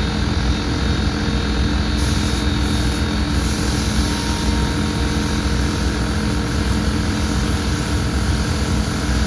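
Race car engines droning steadily, a low, even engine noise with no clear revving.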